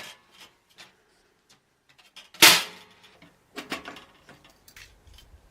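A few short knocks and clatters of objects being handled, the loudest a single sharp one about halfway through.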